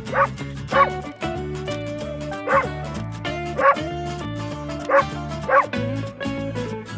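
A dog barking in short sharp yips, six barks at irregular spacing, over background music.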